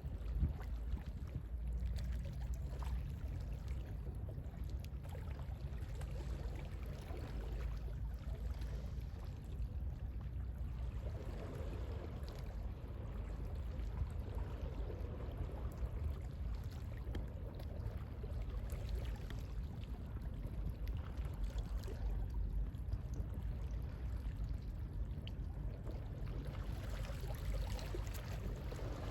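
Gentle sea waves washing steadily, with a low rumble of sea wind.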